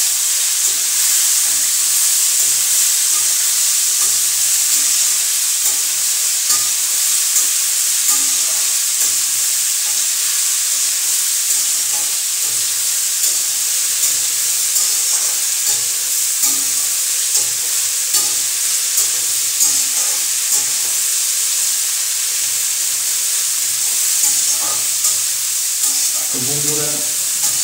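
Shredded cabbage sizzling steadily as it fries in hot oil in a metal kadai, stirred with a metal spatula that scrapes and knocks against the pan about once a second.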